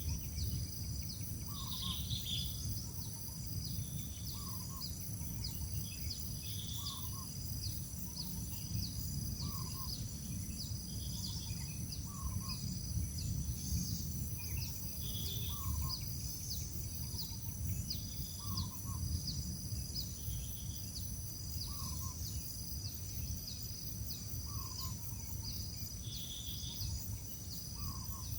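Steady low rumble with a bird repeating a short call about every two seconds, some higher chirps, and a steady high insect-like whine.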